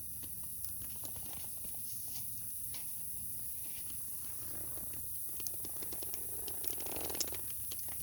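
Small wood fire burning in a camp stove, crackling with scattered sharp pops over a steady low rumble and hiss; the pops come a little thicker and louder near the end.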